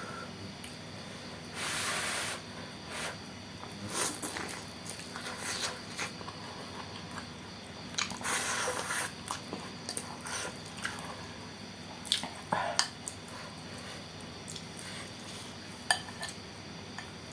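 Close-miked eating of saucy noodles: irregular wet slurps, the longest about two seconds in and again around eight to nine seconds, with wet chewing and a few sharp clicks between them.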